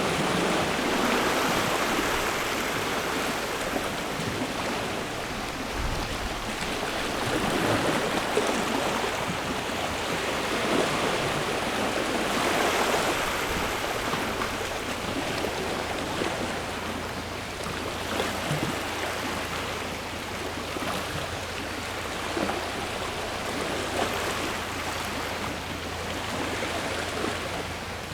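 Sea waves washing onto a shore: a steady rush of surf that swells and eases every few seconds.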